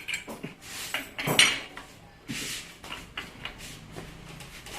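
Metal parts of a rotary hammer clinking and knocking on a workbench as it is taken apart. The loudest is a sharp ringing clink about a second and a half in, followed by a few lighter ticks.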